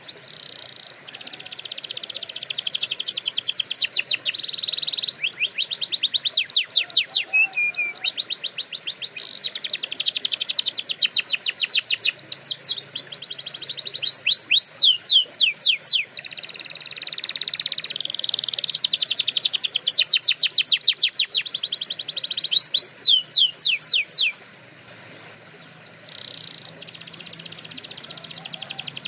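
Domestic canary singing: long trills of rapidly repeated high notes, changing from one note type to the next, some as fast downward-sweeping notes. The song drops quieter for a few seconds a little past three-quarters of the way through, then builds again.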